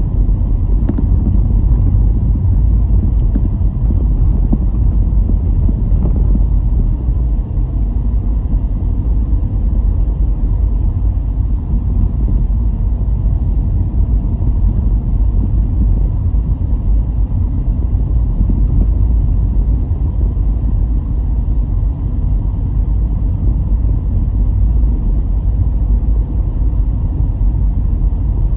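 Steady low rumble of a car driving along a road: engine and tyre noise with no marked changes.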